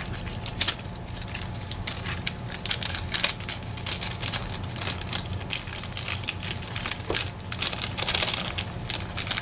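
Irregular small metal clicks and scrapes of a lock cylinder's parts and tools being handled while the lock is taken apart, over a steady low hum.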